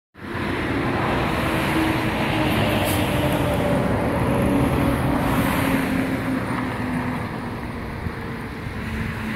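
Steady road traffic noise: the rush of passing vehicles with an engine hum that slowly falls in pitch.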